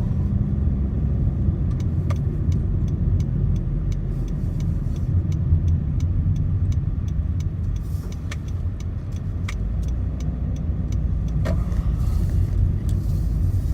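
Cabin road and engine noise of a 2013 Honda Civic being driven: a steady low rumble. From about five seconds in, faint, evenly spaced ticks run over it.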